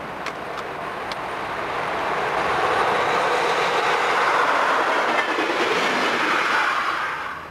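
Electric-hauled passenger train passing close by: rolling wheel-on-rail noise builds to a loud, steady rush as the coaches go past, with a few sharp clicks near the start. The sound drops off suddenly near the end.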